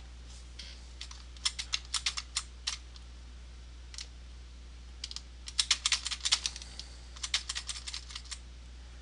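Computer keyboard keys being pressed in several quick bursts of clicks, with pauses between them.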